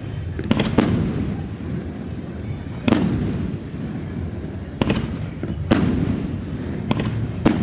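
Fireworks going off: sharp bangs at irregular intervals, about seven in all, some coming in quick pairs, over a steady low rumble of further bursts.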